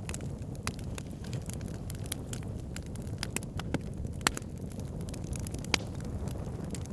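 Wood fire burning in a fireplace: a steady low rumble of flames with irregular sharp crackles and pops, a couple of louder pops a little past the middle.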